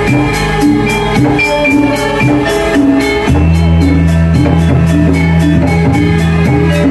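Balinese gamelan music: ringing bronze metallophone melodies over fast, steady clashing cymbal strokes. A deep sustained low tone comes in about three seconds in.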